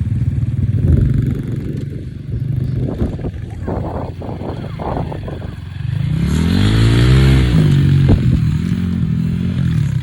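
Small off-road engine running, with clattering knocks in the middle, then revved up about six seconds in and easing back down.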